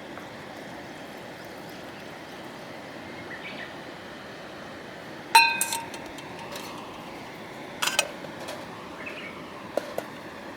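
Metal camp gear clinking: a sharp ringing clink about halfway through, a second ringing double clink near 8 seconds, and two lighter knocks near the end, over a steady background hiss.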